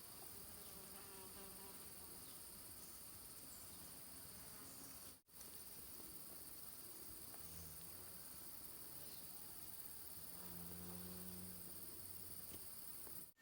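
Faint, steady chorus of insects, a continuous high shrill, with a brief dropout about five seconds in.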